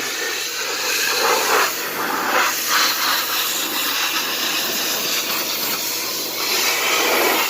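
Pressure washer jet spraying water against a car's body, a steady hiss that swells and fades a little.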